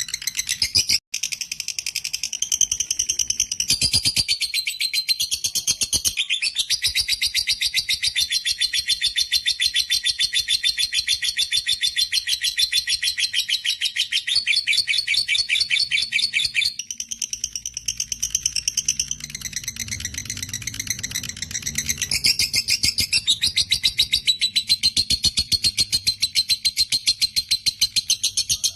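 Lovebird in full 'ngekek' chatter: a long, unbroken run of very rapid, shrill repeated notes, the shifts in pitch every few seconds, with a brief break about a second in. This sustained trilling is the long ngekek prized in a gacor fighter-class lovebird.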